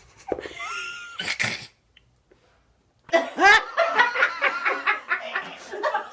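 A short sliding vocal sound, then after a pause of about a second and a half a person laughing in a quick run of several bursts a second for about three seconds.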